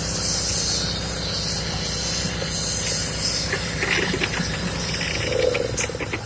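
Engine of heavy road-construction machinery running steadily, with a hiss over it for the first half and scattered clicks and rattles in the second half.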